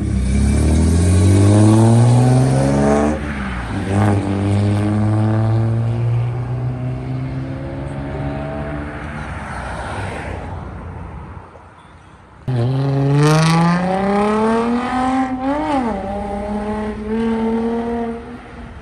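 A vehicle engine accelerating hard away, its pitch climbing steeply and dropping back about three seconds in as it shifts up, then climbing more slowly and fading. Past the middle a second engine cuts in abruptly and revs up hard, with another shift, before running steadily.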